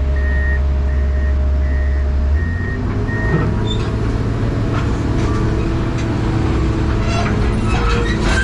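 Komatsu excavator's diesel engine running, heard from inside the cab. Its drone steps up in pitch about two and a half seconds in as the throttle is turned up. A repeated warning beep, a little under two a second, stops shortly after, and scattered clicks and knocks follow.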